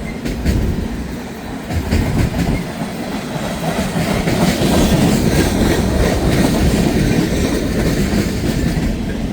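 Freight train cars rolling past, their wheels clattering over the rails in a steady rumble that grows louder about two seconds in.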